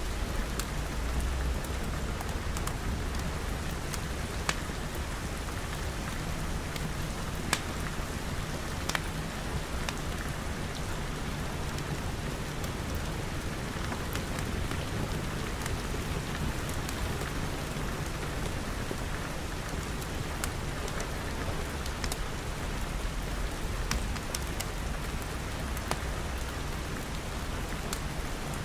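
Steady rain pattering on glass walls and roof, an even hiss with a low rumble beneath it and scattered sharp clicks throughout.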